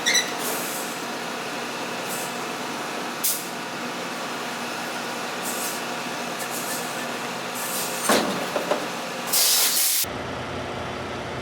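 Steady engine and road noise inside a semi-truck's cab while it drives, with a few light clicks and a short, loud hiss of air at about nine and a half seconds; the sound changes abruptly just after.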